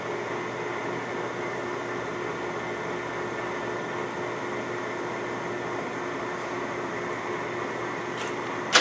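LeBlond Regal engine lathe running steadily under power with a steady whine and hum, its carriage feeding along the lead screw on engaged half nuts. A sharp clunk comes at the very end.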